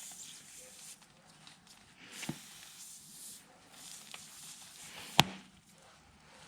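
Faint handling noises from a tyre plug kit being worked at a puncture in a tubeless dirt bike tyre, with a knock a little past two seconds in and a sharp click about five seconds in.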